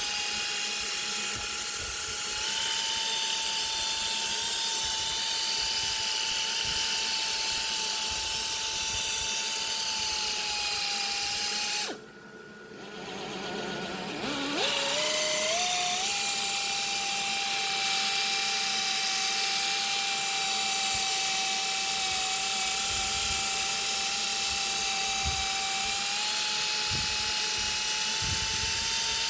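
Handheld electric power tool running steadily at speed with a high whine, cutting out about twelve seconds in, then spinning back up with a rising whine a couple of seconds later and running on.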